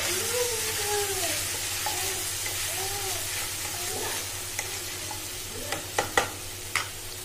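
Chilli-garlic sauce of ketchup, soy sauce and vinegar sizzling in oil in a nonstick kadhai while a spatula stirs and scrapes through it. Near the end come a few sharp knocks of the spatula against the pan.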